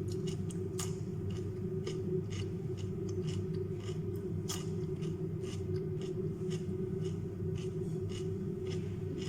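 Crunchy chewing of raw carrot and cucumber: irregular crisp crackles, about one or two a second, over a steady low hum.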